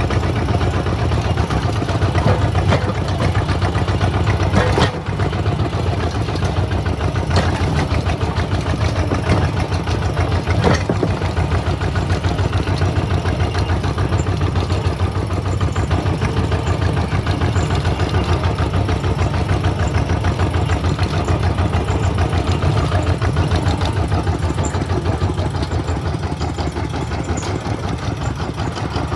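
Kubota tractor's diesel engine running steadily, with a few sharp knocks in the first half, the loudest about five seconds in.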